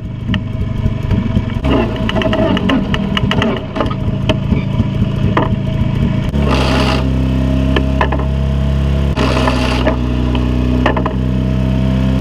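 Tractor engine running steadily with a rattle, stepping up in speed about six seconds in and then holding. Two short bursts of hissing noise come over it a few seconds apart.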